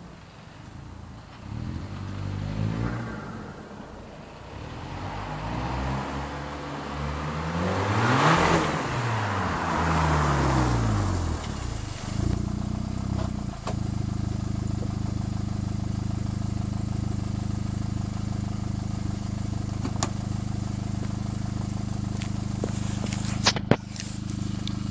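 VW Golf GTI Mk5's 2.0 TFSI turbocharged four-cylinder running through a non-resonated 3-inch Cobra cat-back exhaust. The exhaust note rises and falls and is loudest about eight seconds in, then from about fourteen seconds it settles into a steady idle. A couple of sharp clicks come near the end.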